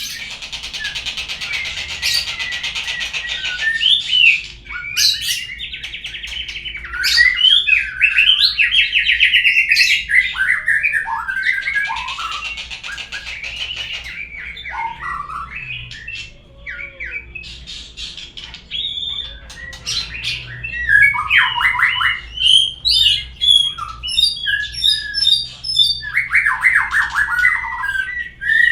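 Murai songbird singing a long, varied song of whistles, rapid trills and harsh chattering notes, used as a lure sound to set another murai singing.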